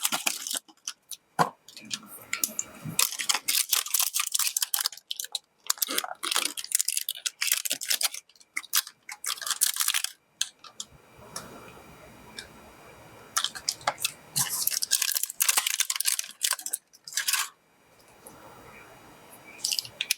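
Irregular rustling and clicking of plastic parts and packaging being handled, with a steadier faint hiss for several seconds in the middle.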